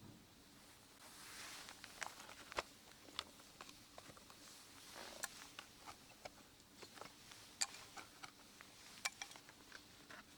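Faint, irregular clicks and crackles with some soft rustling.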